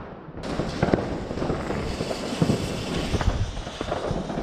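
Fireworks and firecrackers going off all around: a dense hail of bangs and crackle over a steady noisy wash, starting after a brief lull in the first half second.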